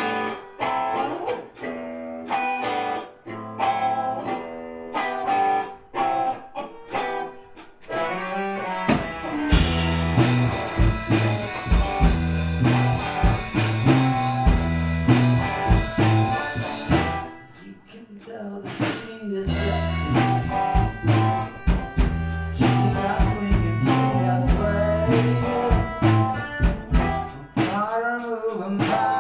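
Live gypsy rock band playing. A guitar picks out notes alone at first, then drums and bass come in with the full band about nine seconds in. The band drops out briefly around eighteen seconds and then comes back in.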